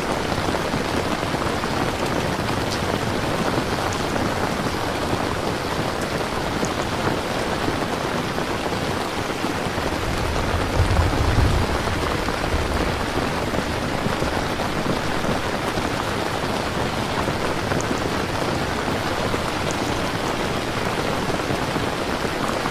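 Steady, heavy rain falling, with a brief low rumble about halfway through.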